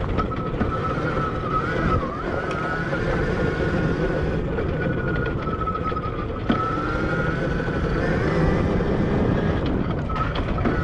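Admitjet Armor electric dirt bike's motor whining in a high thin tone that wavers up and down with speed, over heavy wind rumble on the microphone, with a sharp knock about two seconds in and another after six seconds.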